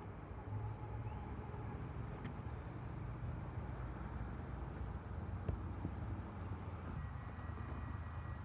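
Low steady rumble of an approaching freight train's diesel locomotives, with a faint high tone coming in about seven seconds in.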